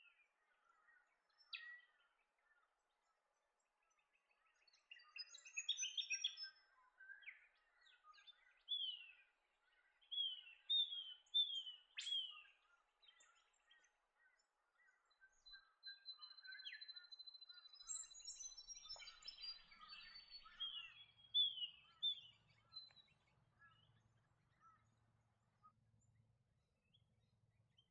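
White-browed scrubwren calling: repeated short down-slurred chirps mixed with scratchy chattering, with a thin steady high note held for about three seconds past the middle.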